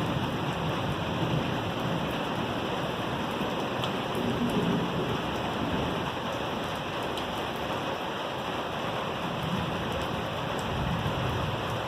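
Steady rain falling in a thunderstorm, with low rumbles of thunder swelling about four seconds in and again near the end.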